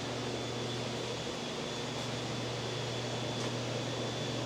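Steady background hum and hiss, with a constant faint high-pitched whine, like a large building's ventilation.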